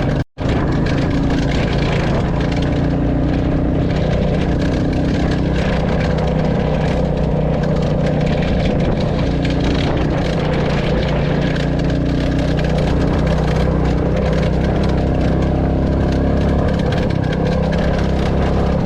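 Royal Enfield Classic 350's single-cylinder engine running at a steady, even speed. The sound cuts out for a moment just after the start.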